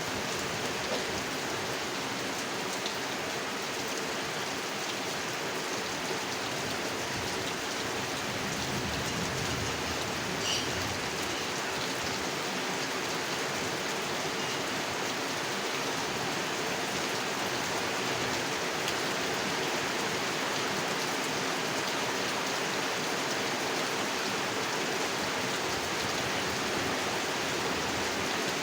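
Steady rain falling on a pond and surrounding surfaces, an even hiss of drops with a few faint separate drips.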